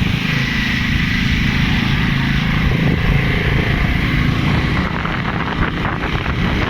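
A vehicle engine running steadily while driving.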